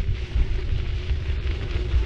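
Riding noise from a city bike: tyres rolling over the road surface with a crackly rustle, and wind rumbling on the bike-mounted action camera's microphone. A faint steady tone runs underneath.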